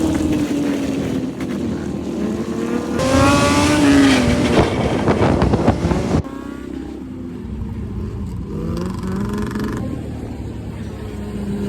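Honda CBR600 sport bike's inline-four engine running at speed, its pitch rising and falling as the throttle is worked, over rushing wind. The wind noise is loudest about three to six seconds in and cuts off suddenly about six seconds in, after which the engine continues more quietly.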